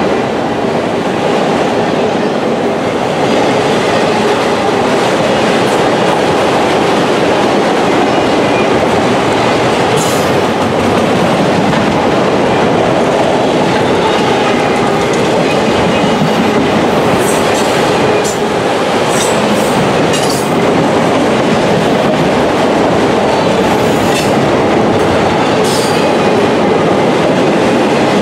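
Autorack cars of a freight train rolling past close by: a steady loud rumble and clatter of steel wheels on the rails, with a few brief sharp high sounds now and then.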